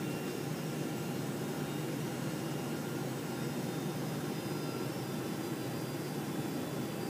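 Steady cabin noise of a Boeing 747-400: an even, low rush of engine and airflow with faint steady whines, heard from inside the upper-deck passenger cabin.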